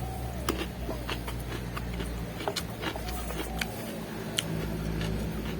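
Close-up chewing of crisp raw vegetables: a string of sharp, irregular crunches and mouth clicks over a steady low hum.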